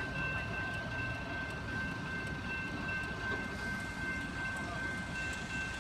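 Rail vehicle running: a steady low rumble overlaid with several steady high-pitched whining tones.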